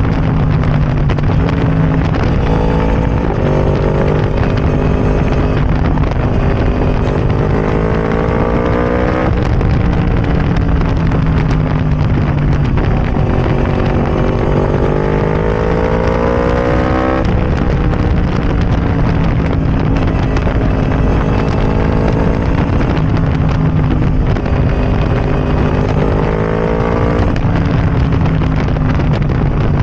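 Yamaha R1 crossplane inline-four running through a decatted Arrow Racing exhaust, pulling hard through the gears. The engine note climbs steadily three times, and each climb ends in a sudden drop in pitch at an upshift.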